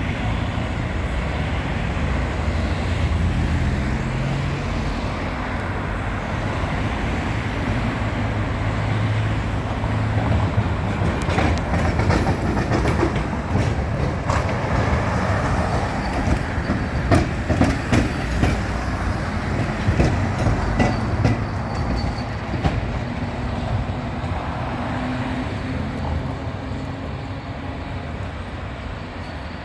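Old tram running on street track: a steady low motor hum with the wheels clacking over rail joints, the clacks thickest in the middle, then the sound easing off near the end.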